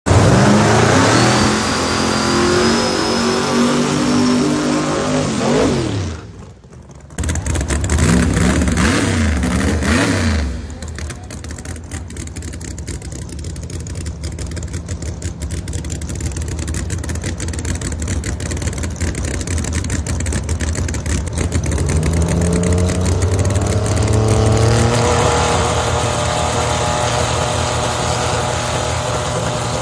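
Boosted Mustang drag-race engines running loud and revving up and down in repeated sweeps, with a short drop in level about six seconds in. The engines then settle to a steadier lower run before revving rises again near the end as the cars stage.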